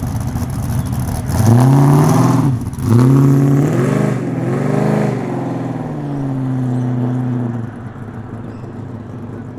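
Ford XY Falcon GS pulling away hard: the engine revs up, drops sharply at a gear change about three seconds in, then revs up again to a peak before easing off, holding a steadier note and fading near the end.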